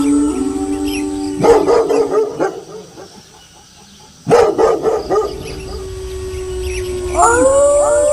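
Wolves howling in long held notes, cut by two short bursts of dog barking about a second and a half in and again about four seconds in, with a lull between. A new howl rises near the end.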